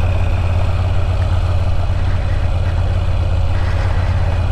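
Moto Guzzi V7 Stone's 853 cc air-cooled transverse V-twin running at a steady cruise on the move, a low, even engine note.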